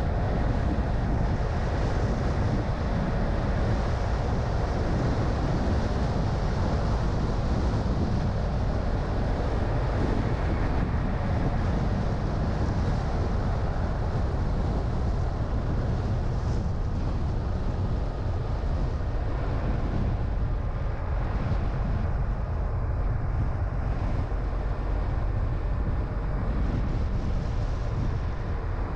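A car driving at steady speed: a constant low rumble of road and tyre noise mixed with wind, easing slightly near the end.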